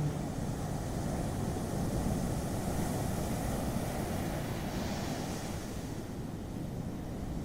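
Ocean surf: a steady low rush of breaking waves, with a wave washing in and hissing up the shore about five seconds in.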